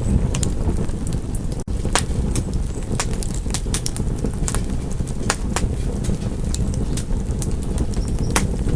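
Wood fire crackling: irregular sharp pops and snaps over a steady low rumble of burning, with a momentary gap in the sound about a second and a half in.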